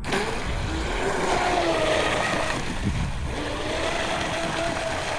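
Radio-controlled Blackjack 24 speedboat running on the water: the electric motor's whine wavers in pitch with the throttle over a steady hiss of spray.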